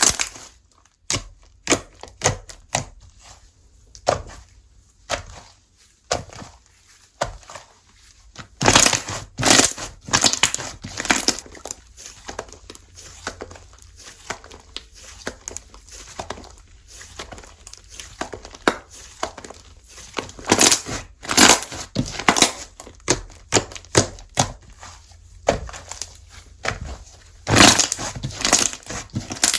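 Slime being squished, pressed and stretched by hand, giving irregular sticky clicks and crackling pops, which come in denser flurries at a few points.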